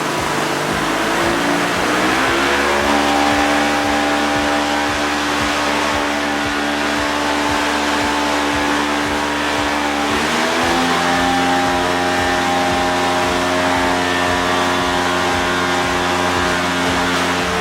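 A blower motor running at speed to make artificial wind, its pitch stepping up about two seconds in and again about ten seconds in.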